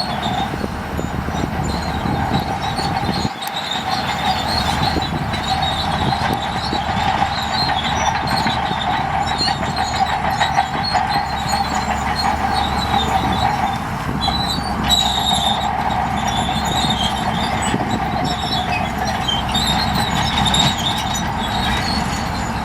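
Heavy earthmoving machinery running steadily, with a continuous high metallic squealing and clattering over the engine noise.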